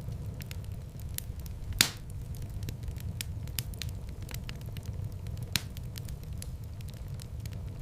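Wood fire burning in a fireplace: a steady low rumble of flames under many small, irregular crackles, with two louder pops, one near two seconds in and one about five and a half seconds in.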